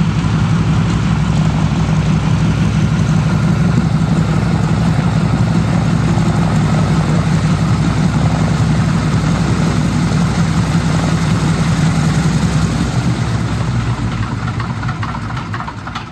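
Propeller-driven warbird's piston engine running steadily close by, fading away over the last few seconds.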